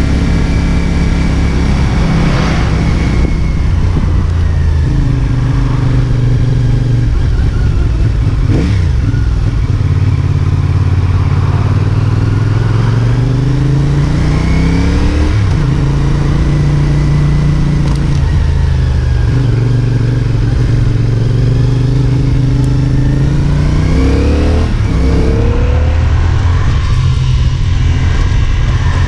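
CFMOTO 450SRS parallel-twin motorcycle engine under way, pulling up through the revs and dropping back sharply several times as gears change, with steadier cruising between.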